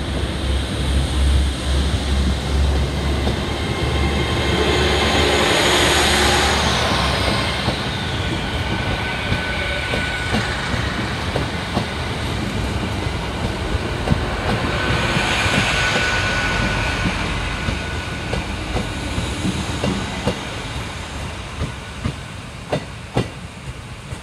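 Hitachi Class 802 bi-mode train passing close by on its diesel engines: a low engine rumble and wheel-on-rail noise that swell, then fade as it runs away. A few sharp clicks near the end.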